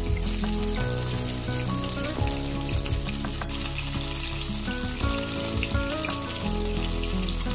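Semolina-coated chicken pieces sizzling and crackling as they shallow-fry in hot oil in a frying pan, with background music under them.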